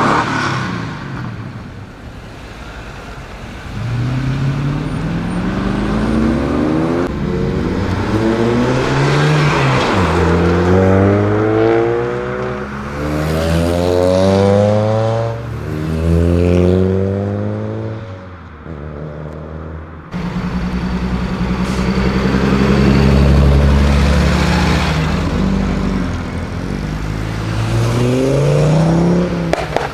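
Several cars accelerating away in turn, engine notes climbing through the gears and dropping back at each shift for about four runs. A steadier, deeper engine drone follows, then another car revs up near the end.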